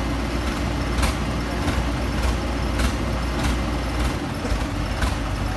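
Excavator's diesel engine running steadily with a low rumble, with sharp clicks every half second to second over it.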